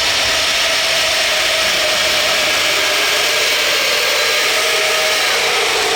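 Radio-controlled pulling vehicle running flat out on a pull: a loud, steady, high-pitched whir from its motors and drivetrain, dipping slightly in pitch near the end as it loads up.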